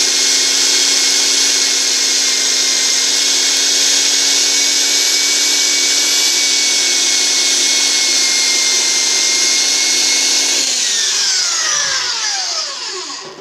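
Harbor Freight portable band saw with a 24 TPI metal-cutting blade running steadily through a hickory pen blank. About eleven seconds in the motor is switched off and winds down with a falling whine.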